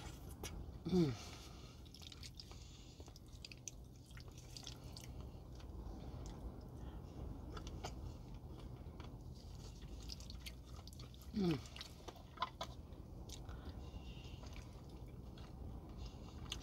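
Close-up chewing and wet mouth clicks as food is eaten with a spoon, with two short falling hums from the eater, about a second in and again near eleven seconds.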